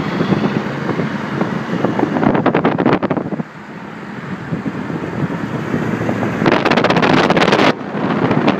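Road noise heard from inside a moving car in heavy rain: a steady rush of tyres on the wet road, with two louder rushing stretches, one about two seconds in and one near the end, that each cut off suddenly.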